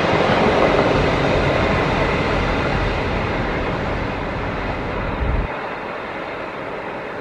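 Diesel-electric locomotive hauling passenger carriages along the line and moving away, a steady rumble of engine and wheels on rails that fades.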